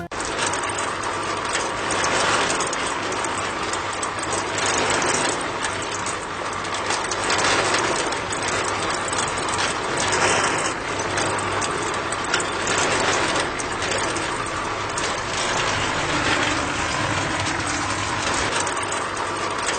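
A small motor running steadily, with a dense rattling noise.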